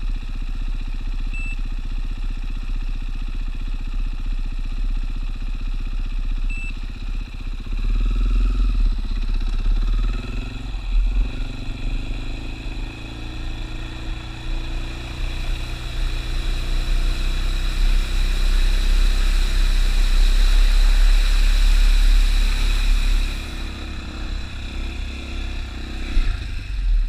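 Dirt bike engine running, picking up about eight seconds in. A loud rush of water spray joins it for several seconds as the bike rides through a river crossing, and it cuts off suddenly near the end.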